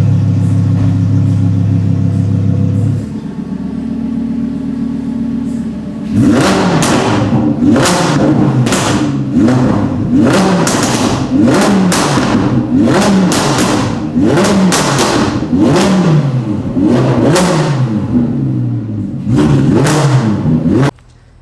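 Audi R8's 5.2-litre V10 through a freshly fitted Quicksilver Titan exhaust, idling high and then settling lower for a few seconds. From about six seconds in it is revved in a long series of quick throttle blips, about one a second, each pitch rising and falling, until the sound cuts off near the end.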